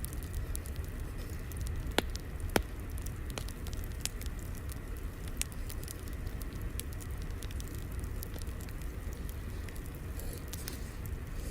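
Wood fire crackling over a steady low rumble, with scattered sharp snaps and two louder pops about two and two and a half seconds in.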